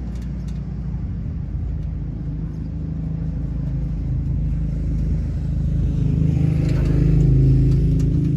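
Steady low engine rumble, growing gradually louder toward the end.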